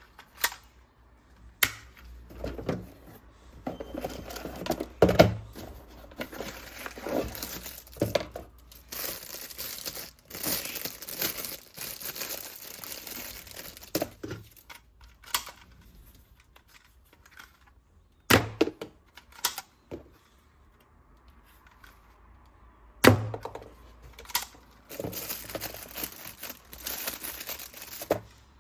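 Toy unboxing handling: packaging crinkling and tearing in stretches, with about half a dozen sharp knocks of hard toy pieces being set down or handled.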